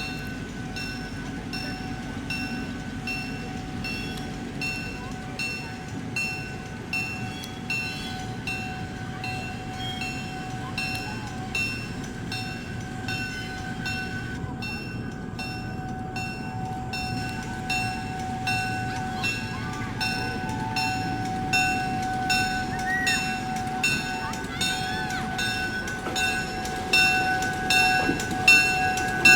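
Train passing with a locomotive bell ringing steadily, about two strikes a second, over a steady running hum, growing louder near the end.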